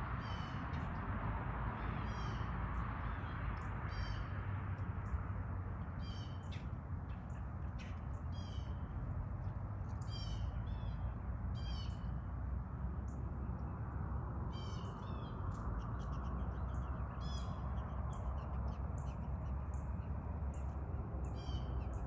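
Birds calling: short high calls repeated every one to two seconds, with quick high chirps among them in the second half, over a steady low rumble.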